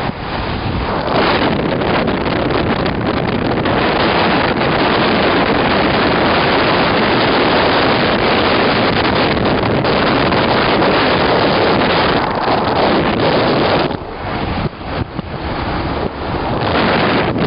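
Wind rushing over the microphone of a moving motorbike, with the bike's running noise underneath; the rush eases briefly a few times near the end.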